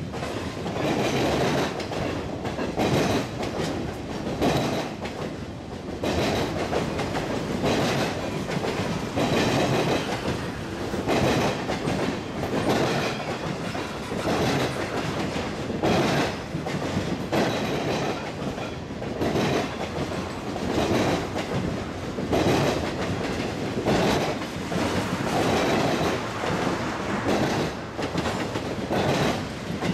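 Two freight trains rolling past close by on both sides, one a mixed manifest of boxcars, hoppers and tank cars and the other an intermodal train of trailers on flatcars. Steel wheels rumble steadily, with a loud rhythmic clickety-clack roughly every second or two as each car's wheel sets pass.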